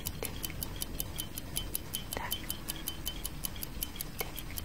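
Clock ticking sound effect, fast and even at about five ticks a second, with a softer, lower tick about every two seconds.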